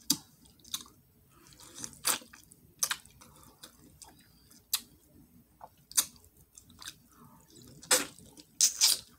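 A person eating pork pigtails, chewing with sharp wet lip-smacks and mouth clicks that come irregularly about once a second, several of them close together near the end.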